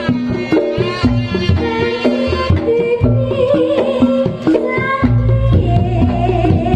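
Reog Ponorogo gamelan music playing loudly: hand drums beat a steady rhythm under gongs and a pitched melody with sliding notes.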